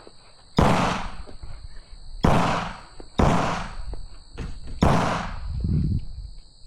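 Four gunshots, each a sharp crack followed by a long echo that dies away. The second, third and fourth come in quick succession, less than a second apart.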